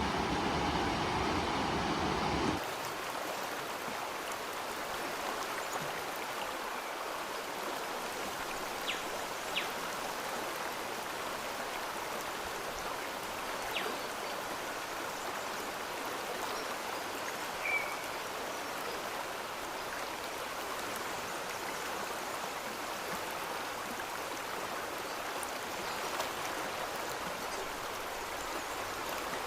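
Steady rush of a flowing stream, with a few faint ticks and one short high chirp partway through. A louder, deeper rush cuts off abruptly about two and a half seconds in.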